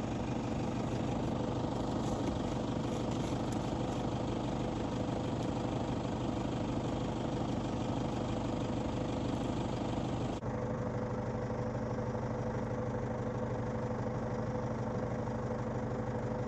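A vehicle engine idling steadily, a constant low hum. About ten seconds in, the sound becomes duller at an edit, but the idle carries on.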